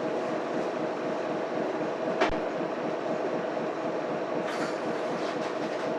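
Mitsubishi Fuso Aero Star bus's 6M70 six-cylinder diesel idling at a stop, heard from inside the cabin as a steady hum. A single sharp click comes about two seconds in, and a short hiss about four and a half seconds in.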